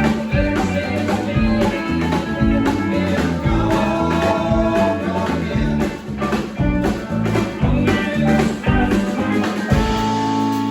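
Live band playing a blues-rock number with a steady drum beat, settling onto held notes near the end.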